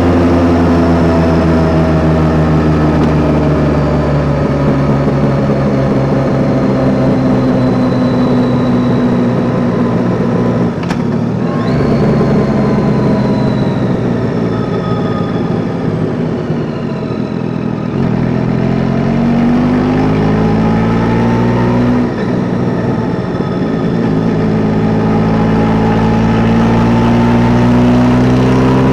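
Yamaha Tracer 9 GT's three-cylinder engine on the move: its note sinks slowly as the bike slows down over the first third, then climbs under acceleration in the last third, with a short break for a gear change before rising again.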